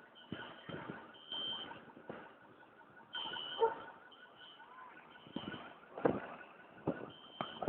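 Repeated high electronic beeping, an alarm-like tone sounding in short irregular bursts, over scattered knocks and clatter.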